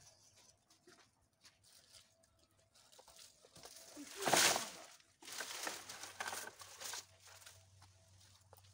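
Dry brush branches rustling and crackling as they are handled and carried, with the loudest rush about halfway through and more irregular rustling after it.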